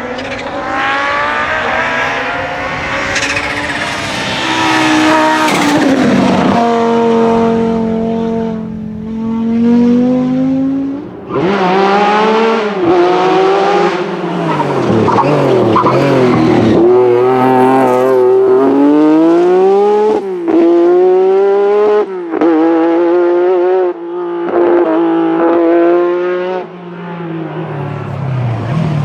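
Classic rally car engines at full throttle, revs climbing and then dropping sharply again and again with quick gear changes, with several brief sudden cut-outs in the sound.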